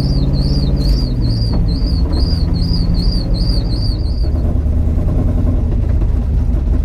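Car engine running steadily at low revs. A high chirp repeats about three times a second over it and stops a little past four seconds in.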